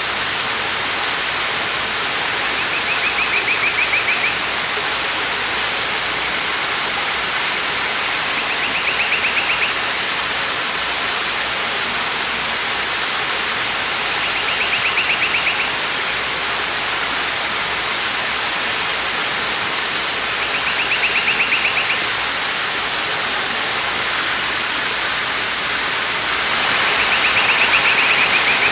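Waterfall rushing steadily, swelling slightly near the end. Over it, a short pulsed trill repeats about every six seconds, five times in all.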